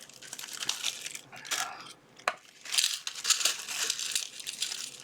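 Small plastic component bag crinkling and rustling as it is handled and opened, with a sharp click about two seconds in and a denser burst of crinkling soon after.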